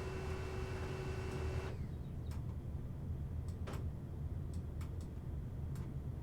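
Background music that stops about two seconds in, then a few scattered light clicks and taps from trading card packaging being handled, over a steady low hum.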